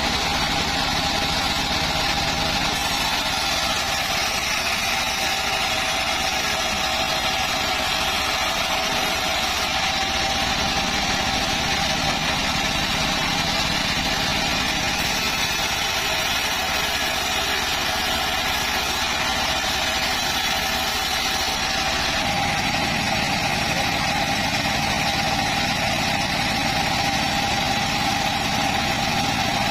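Engine-driven band saw running steadily with a constant mechanical drone, its low end getting fuller about two-thirds of the way through.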